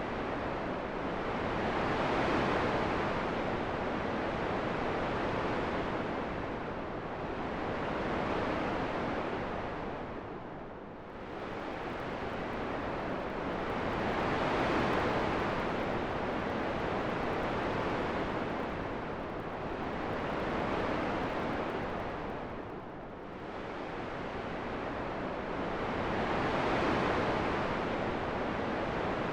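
Steady rushing wind noise that swells and eases every few seconds, with deeper lulls about a third and three quarters of the way through.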